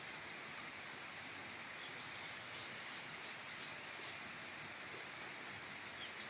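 Outdoor ambience: a steady, even hiss with a small bird chirping a quick run of short high notes about two seconds in, and once more near the end.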